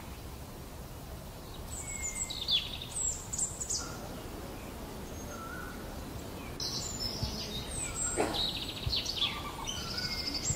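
Birds chirping and calling over a steady outdoor background noise; the short high calls come in two spells, about two seconds in and again from about six and a half seconds in.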